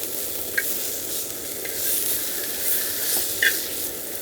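Pork belly (samgyeopsal) sizzling and spitting in a hot pan, a steady crackling hiss, with a couple of short sharp ticks about half a second and three and a half seconds in.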